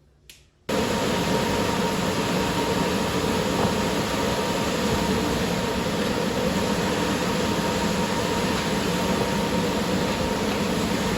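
Two light clicks, then an electric fan starts abruptly, under a second in, and runs steadily as a loud, even rush of air with a faint steady tone.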